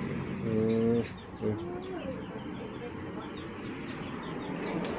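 Birds calling: a low, steady-pitched call about half a second in, then a shorter call that bends in pitch, followed by a run of small, quick chirps.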